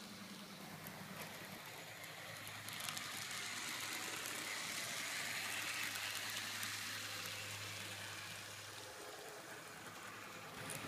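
N-scale model diesel locomotive running along the layout's track: a steady whir of its small motor and a rushing rattle of wheels on rail, swelling about three seconds in and easing off near the end as it passes.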